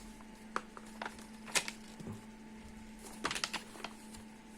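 Paper pages of an instruction booklet being turned and handled: scattered light rustles and clicks, with a small cluster of them about three seconds in, over a faint steady hum.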